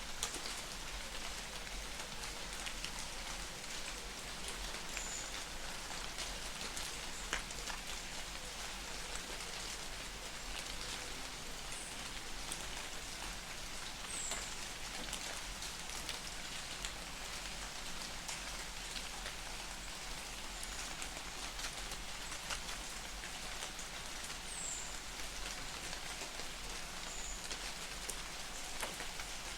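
Light rain falling in a forest: a steady hiss of rain with many fine drop ticks on leaves and surfaces, and a few faint, high chirps scattered through it.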